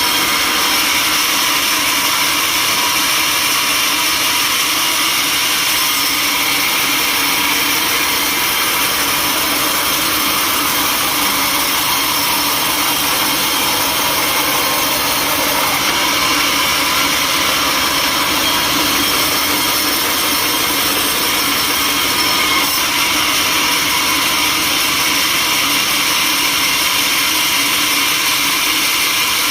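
Sawmill machinery running steadily: a loud, even, high-pitched whir and hiss with no pauses.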